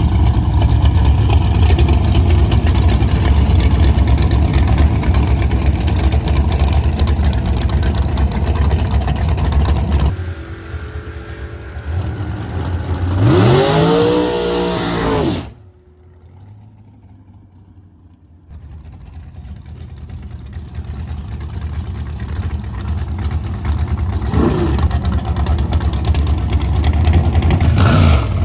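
Drag racing car engines at a race track: loud and steady for about ten seconds, then an engine revving up and back down. The sound cuts off suddenly to a quieter stretch, and engine noise builds up again toward the end.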